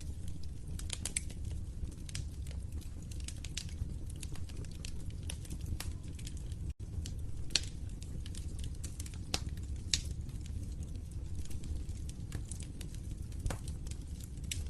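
Wood fire crackling in a fireplace: irregular sharp pops and snaps, a few of them louder, over a steady low rumble of the flames. The sound drops out for an instant near the middle.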